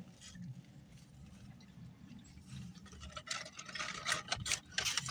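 Quiet eating sounds: chewing and mouth noises, with a cluster of short clicks and crackles in the second half.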